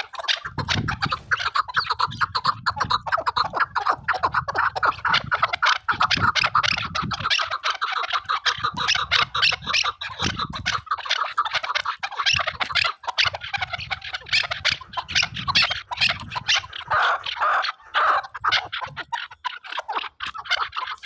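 Chukar partridges calling: a continuous, rapid run of short clucking notes.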